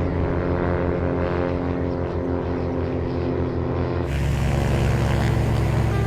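Light propeller airplane's engine droning steadily with a pulsing beat. About four seconds in, the sound cuts abruptly to a deeper, steady engine rumble.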